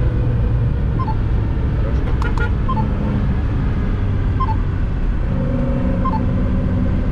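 Moskvich 408's engine running in a steady low drone whose note shifts about five seconds in. A short two-note beep repeats about every second and a half.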